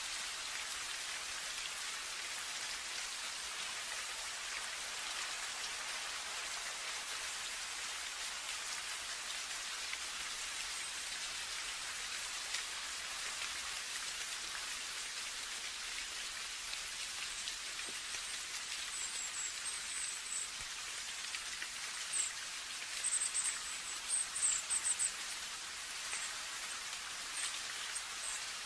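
Steady rain, an even hiss of countless drops. In the second half it is joined by a few short bursts of quick, very high-pitched chirps, which are the loudest moments.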